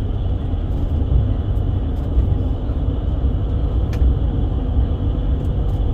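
Steady engine and road rumble inside a moving vehicle, deep and even throughout.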